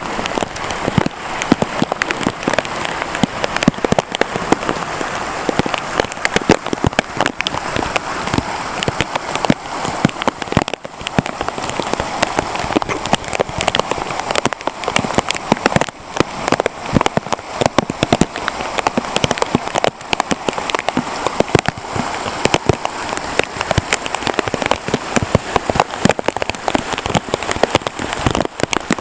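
Heavy rain falling steadily, a dense patter of drops striking close by over a constant hiss.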